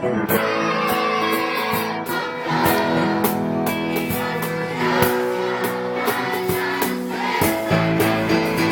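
Children's choir singing a gospel song, accompanied by guitar and a steady percussion beat.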